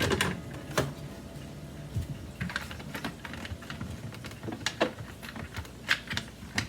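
Hands working the plastic housing of a Hoover Dimension 1000 upright vacuum: scattered clicks and knocks as its panels and latches are pressed and pulled while trying to open it.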